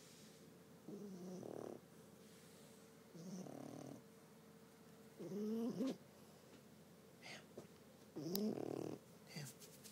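French bulldog snoring in its sleep: four snores about two seconds apart, each a short breath with a pitch that wavers up and down.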